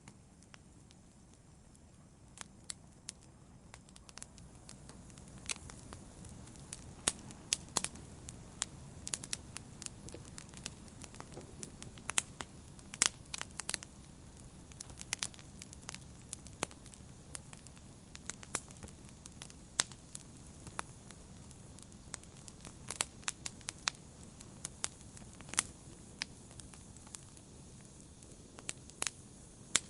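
Wood fire burning: irregular sharp crackles and pops over a low steady hiss, growing busier a few seconds in.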